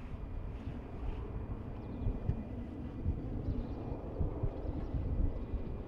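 Jet airliner's engines running at a distance: a steady rush with a faint high whine, mixed with wind buffeting the microphone.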